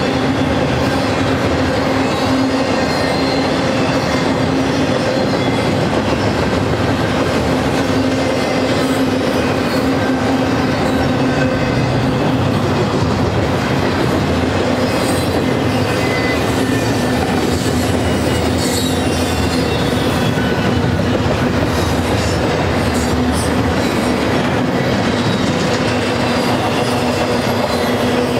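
Double-stack intermodal freight train's well cars rolling past at close range: a steady loud rumble of steel wheels on rail with a constant hum, and brief high wheel squeals here and there in the second half.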